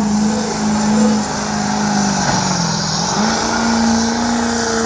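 Diesel truck engine running hard at high revs with a steady, loud note. About halfway through the pitch sags for under a second, then climbs back and holds.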